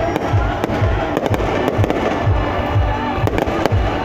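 Aerial fireworks bursting in quick succession, many sharp bangs and crackles, over music with a steady low beat.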